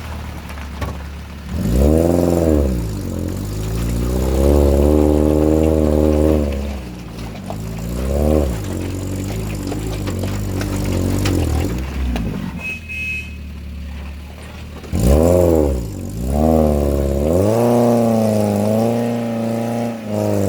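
Off-road vehicle engine revved up and down repeatedly in several long surges, its pitch climbing and falling, as a vehicle is worked slowly through a difficult stretch.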